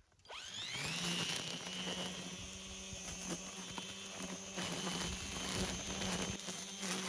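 Grass trimmer spinning up with a quickly rising whine about a third of a second in, then running at a steady high pitch while cutting the grass low.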